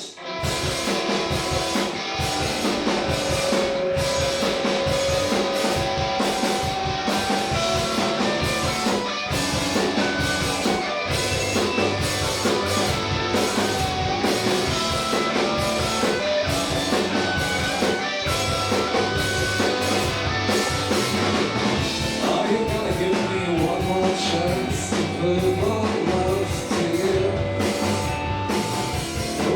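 Live indie rock band playing a song, with electric guitars, bass and drum kit coming in together at once, and held sung or guitar notes over a steady beat.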